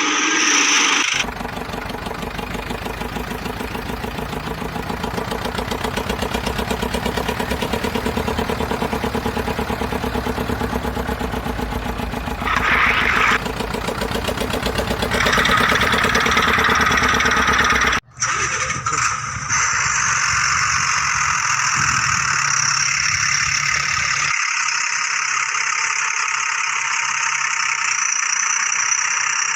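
Tractor engine sound effect running with a fast, steady chug. About 18 seconds in it cuts off sharply and a steadier, higher engine drone takes over.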